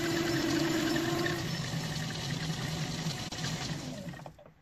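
Metal lathe running, then winding down and coasting to a stop near the end.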